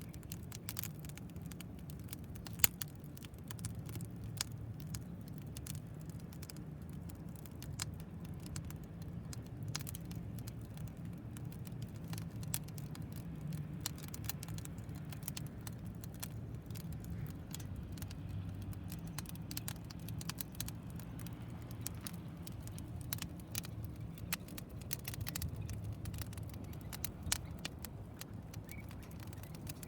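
Wood fire burning in a homemade tower-style fire pit: irregular sharp crackles and pops, one much louder about two and a half seconds in, over a steady low rumble.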